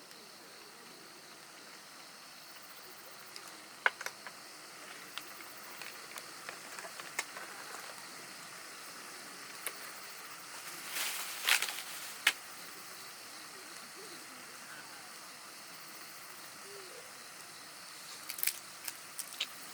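Wood campfire crackling: a steady soft hiss with scattered sharp pops and cracks, a louder cluster of cracks about eleven seconds in and a few more near the end.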